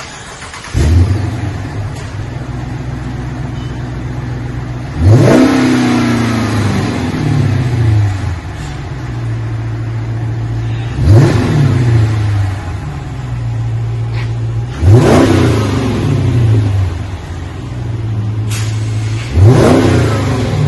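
2020 Chrysler 300S engine through an aftermarket Magnaflow Magnapack rear-muffler exhaust with quad tips, the factory mid mufflers and catalytic converters kept. It starts about a second in and settles to a steady idle. It is then revved four times, each a quick rise in pitch falling back to idle.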